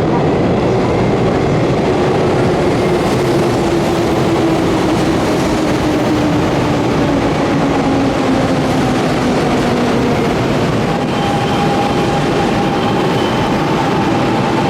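Electric commuter train running into the station platform, its motor whine falling slowly in pitch as it brakes, with a steady high squeal setting in about two-thirds of the way through.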